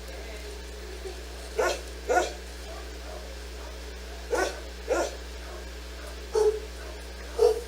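A dog barking: about six short barks, mostly in pairs about half a second apart, over a steady low hum.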